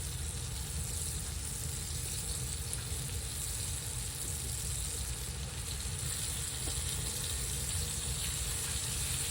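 Deer backstrap steaks sizzling steadily in a hot frying pan, over a low steady rumble.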